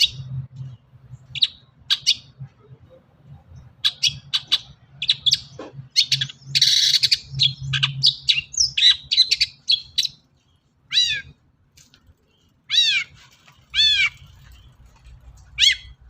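Long-tailed shrike (cendet) singing a fast, varied song. It runs from quick high chirps and stuttered notes into a harsh rasping burst about six seconds in, then repeated downward-sweeping whistled calls, over a faint low hum.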